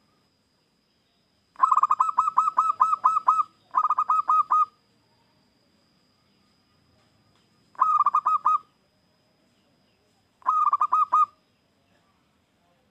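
Zebra dove (perkutut) singing: four bouts of rapid staccato coos, about five notes a second, the first bout the longest and the next three shorter.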